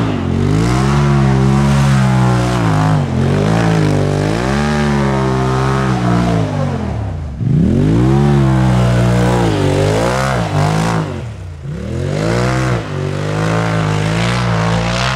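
Polaris RZR Turbo S side-by-side's turbocharged twin-cylinder engine revving hard during snow donuts, its pitch climbing and falling again and again, dropping low twice near the middle.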